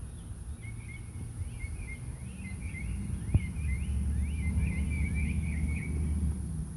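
A songbird chirping a quick run of short, sliding notes, over a low outdoor rumble, with one sharp click midway.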